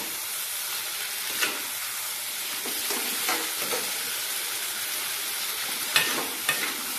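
Mutton chilli in tomato sauce sizzling steadily in a kadai over a gas flame. A metal spoon stirring it clicks against the pan a few times.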